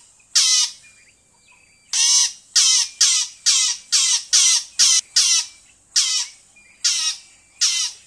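A bird calling in harsh squawks, each a fraction of a second long. After a first squawk there is a pause of over a second, then about a dozen more come in quick, irregular succession.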